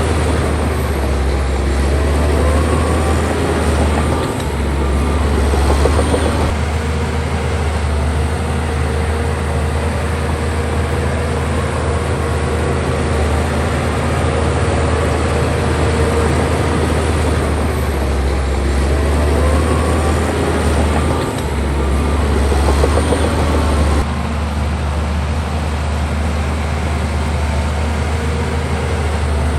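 Heavy diesel earthmoving machinery running loud and steady, with a low engine drone. The pitch rises and falls twice as the machine works, and the sound changes abruptly about two-thirds of the way through.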